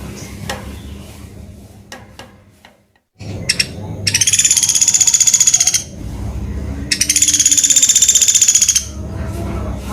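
Pelatuk beras woodpecker (common flameback) giving two rapid, high rattling trills, each about two seconds long, with about a second between them.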